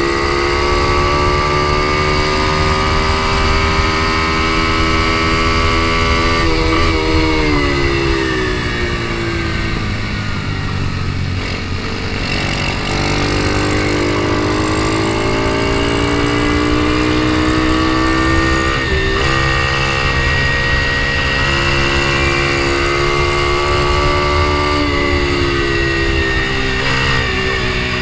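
Ohvale mini GP bike's single-cylinder four-stroke engine heard from a camera mounted on the bike, running hard at racing speed with wind rushing past. The engine note climbs, drops off around the middle as the throttle is closed, climbs again with a short break about two thirds in, and falls with a few quick blips near the end.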